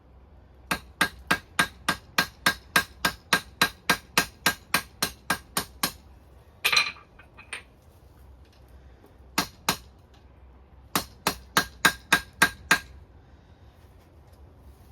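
Blacksmith's hammer striking a hot steel chain-link bar on the anvil: a run of about nineteen ringing blows, about three to four a second. A short clatter follows, then two blows and a second run of about eight. The blows are drawing out a scarf on the link end for forge welding.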